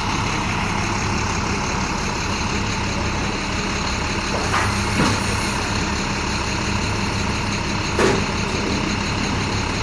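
Box truck engine idling steadily, with a few short knocks about five and eight seconds in.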